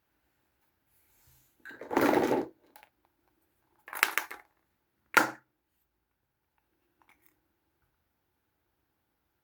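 Hands handling small plastic toys and their wrapping: three short bursts of crinkling and clatter, the first and longest about two seconds in, then a faint tick near the end.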